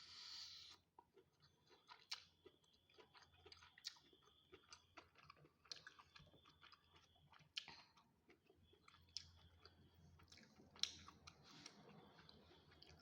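A person quietly chewing a mouthful of food, with many short, irregular mouth clicks and smacks.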